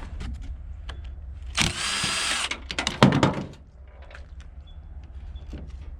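Power drill running for about a second on a stuck fastener in scrap metal, then a loud knock, with small metal clicks and clanks around it.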